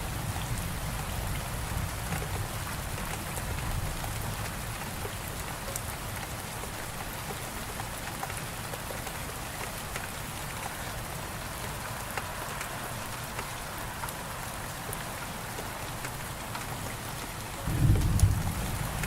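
Steady rain falling, with a low rumble of thunder fading away over the first few seconds and a short, louder roll of thunder near the end.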